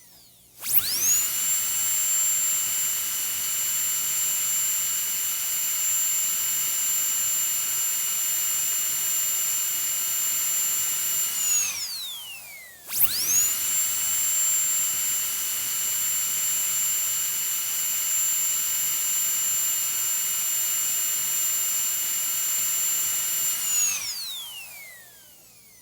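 Dentist's high-speed drill whining at a steady high pitch, run twice for about eleven seconds each: it spins up sharply, holds steady, then winds down with a falling whine before starting again.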